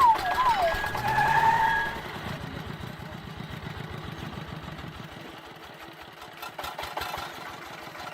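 A small engine running steadily with a fast even pulse. A whistle-like tone wavers and holds over it for the first two seconds, then stops.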